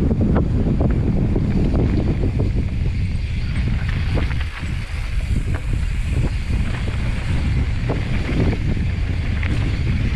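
Wind rushing over the microphone of a mountain bike descending a dirt trail, with tyre roll and scattered knocks and rattles from the bike over rough ground.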